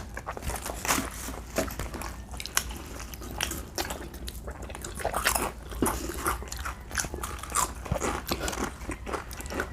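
Close-up eating sounds: people biting and chewing food, with irregular sharp clicks and wet mouth noises.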